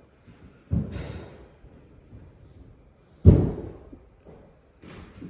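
Two heavy thuds about two and a half seconds apart, the second louder, each dying away quickly.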